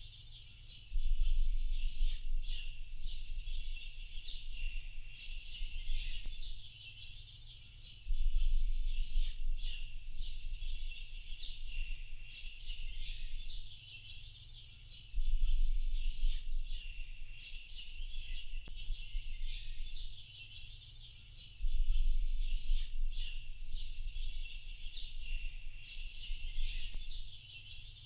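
A dense chorus of small birds chirping and twittering, many short high calls overlapping without pause. Beneath it a low rumble comes and goes in stretches of about five to six seconds.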